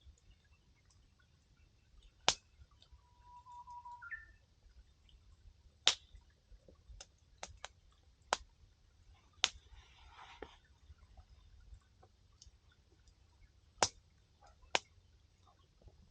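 Firewood popping and crackling in a campfire: irregular sharp snaps, about six loud ones spread several seconds apart, with fainter ticks between.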